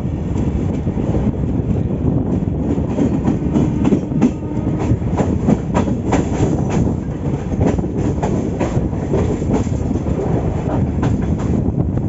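Passenger train running along the track: a steady low rumble with frequent irregular clicks and knocks of the wheels over the rails.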